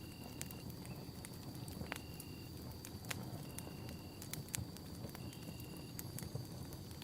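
Campfire burning with a low steady rumble, sharp crackles and pops every second or so. Behind it, a short high chirp repeats about every two seconds over a steady high-pitched tone.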